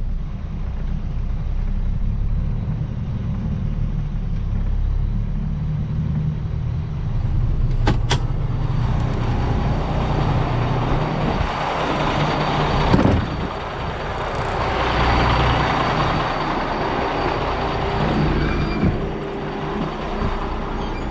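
Diesel semi truck running under way, a steady low engine rumble. From about eight seconds in, a broad rushing noise builds over it, with a brief loud burst about halfway through.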